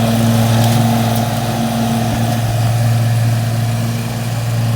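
Engine of a new riding lawn mower (lawn tractor) running steadily at an even pitch.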